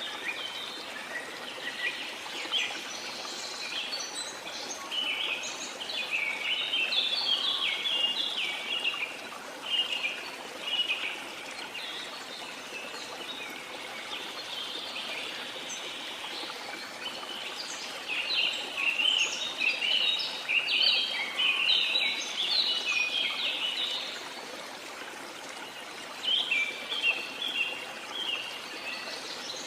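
Rainforest ambience: a steady hiss of falling water under birds chirping rapidly in bouts, busiest in the middle and again near the end.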